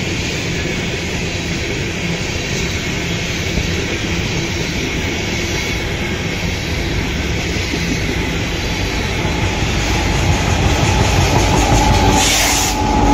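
BNSF coal train passing at speed: steel-wheeled coal hopper cars rolling by with a steady rumble and clickety-clack of wheels on the rails. It grows louder near the end as the mid-train diesel locomotives come alongside.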